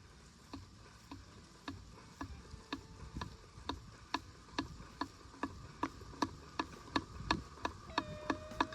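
Water spray from an Orbit traveling tractor sprinkler striking a 3D-printed phone tripod mounted on it, making a regular ticking, about two ticks a second, growing louder.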